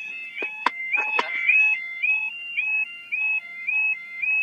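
Level crossing yodel alarm sounding: a two-tone warble that repeats about twice a second. A few sharp knocks come in the first second or so.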